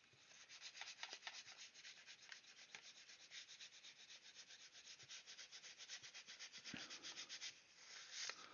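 Hand sanding of a plastic scale model's surface: quick, even back-and-forth rubbing strokes, several a second, that smooth the surface. The strokes stop near the end, and one brief softer scrape follows.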